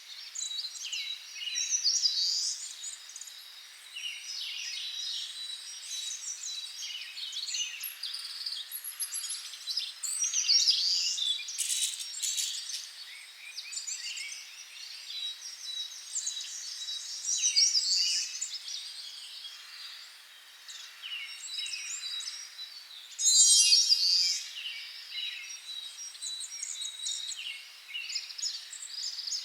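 Several small songbirds chirping and calling over and across each other, with a thin steady high tone underneath. About two-thirds of the way in, a quick rattling trill stands out as the loudest call.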